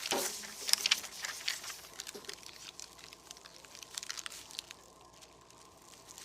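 Small clicks and crackles of debris settling after a crash, dense at first and thinning out over the first few seconds until it is nearly quiet.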